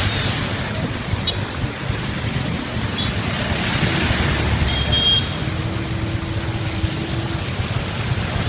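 Steady rushing of floodwater under a heavy low rumble, with a brief high-pitched beep about five seconds in.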